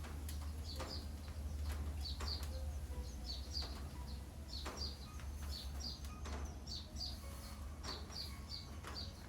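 Birds chirping over and over in short, high chirps, often in pairs, with scattered sharp knocks and a steady low rumble underneath.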